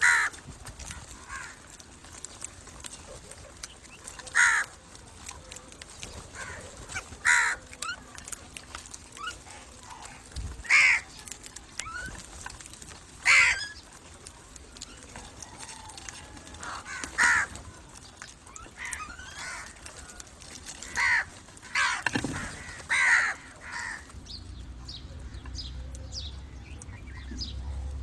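Crow cawing: single loud, harsh caws every few seconds, about eight in all. Near the end a run of quick, fainter, higher-pitched bird chirps takes over.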